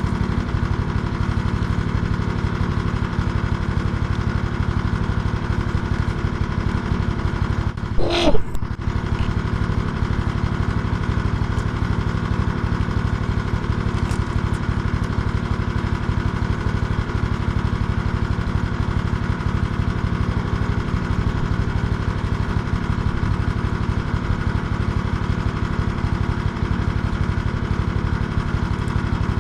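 A small engine running steadily at an even speed, with one short, loud knock or rattle about eight seconds in.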